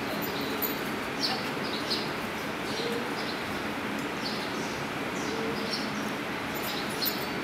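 Small birds chirping, short high chirps repeating every half second to a second over a steady hiss.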